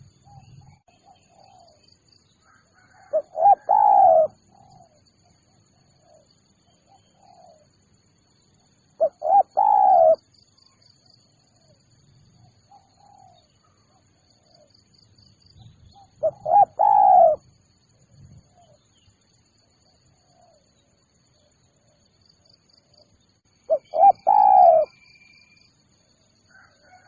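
Spotted dove (tekukur) cooing: four phrases about seven seconds apart, each a few quick coos ending in a longer drawn-out note.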